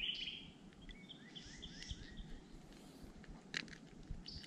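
Wild birds singing: a bright call at the start, then a quick run of about five short chirping notes. A couple of faint clicks a little past halfway.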